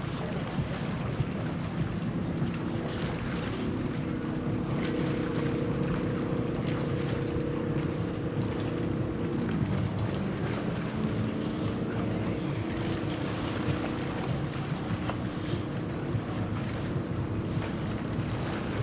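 Jet ski engine running, with wind buffeting the microphone; the engine's pitch rises about four seconds in, holds, then drops back near the middle.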